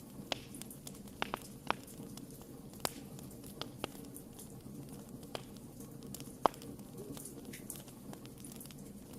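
Wood fire crackling, with sharp irregular pops and snaps over a low steady hiss; the loudest pop comes about six and a half seconds in.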